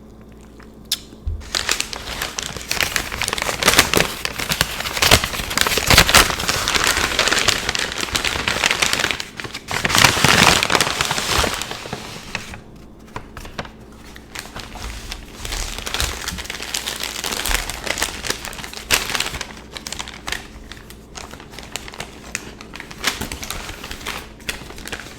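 Takeout bag and food wrapping crinkling and rustling as the order is unpacked, loud for the first half and lighter, sparser handling after about twelve seconds.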